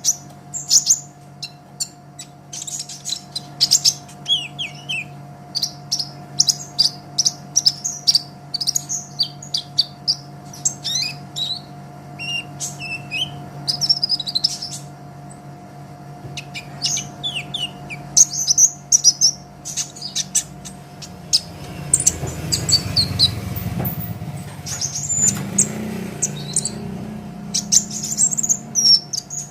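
Kolibri ninja sunbird singing in quick runs of short, high-pitched chirps and twitters, with short pauses between runs. A steady low hum sits underneath, and a low rumble rises about three-quarters of the way through.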